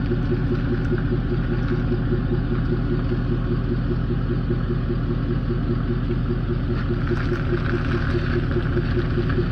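An engine running steadily at constant speed, with a fast, even pulsing beat.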